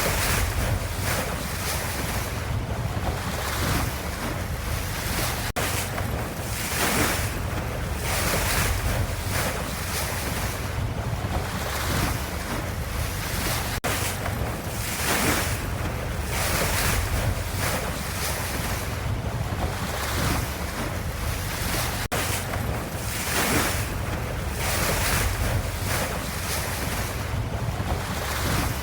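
Ocean waves washing in a continuous hiss that swells and eases every couple of seconds.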